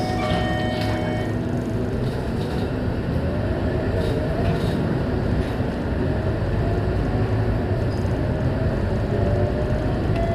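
Scania K230UB city bus running on the move: a steady engine and road rumble, with a driveline whine that rises in pitch twice as the bus picks up speed.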